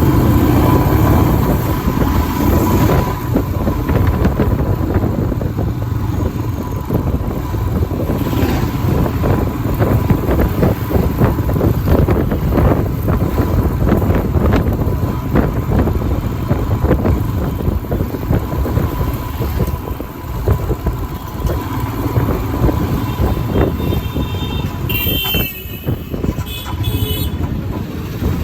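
Royal Enfield Himalayan's single-cylinder engine running while riding, with heavy wind buffeting on the microphone. A horn sounds briefly near the end.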